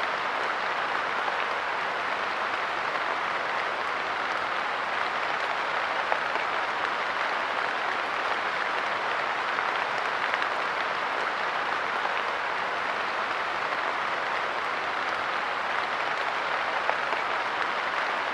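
Light rain falling steadily on a park bench, an even patter of drops with a few slightly louder single drops standing out.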